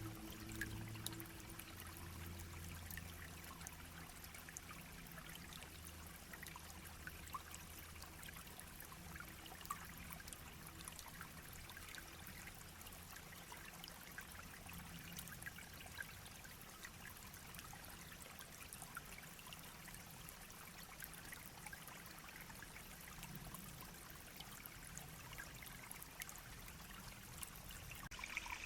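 Shallow stream babbling and trickling over stones: a soft, steady rush of water dotted with many small splashes and drips.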